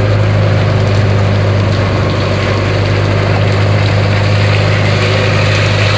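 Engine aboard a bagan fishing boat running steadily at an even speed, a loud unchanging low hum.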